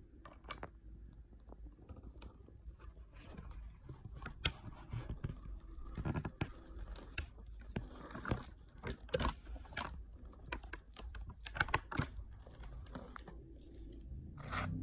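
Close-miked chewing of crunchy food: irregular crisp crunches and clicks, thickest and loudest in the middle stretch, with one more loud crunch near the end.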